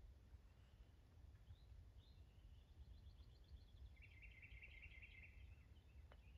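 Near silence: faint bird chirps, then a rapid trill about three seconds in and a stronger, faster trill from about four seconds in lasting over a second, over a low steady rumble. A single faint click near the end.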